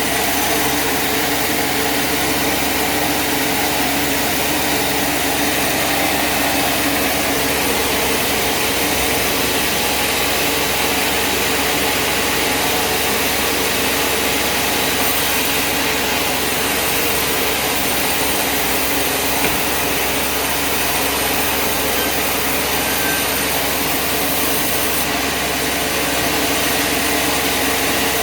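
A sawmill's engine running steadily: a loud, constant mechanical drone with no pauses or changes.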